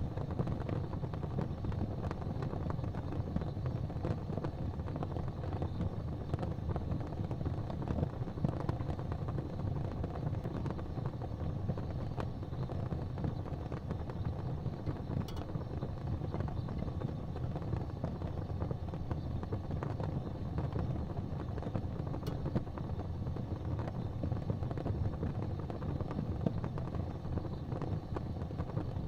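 Wood fire in a fireplace burning with a steady low rumble and a few faint crackles.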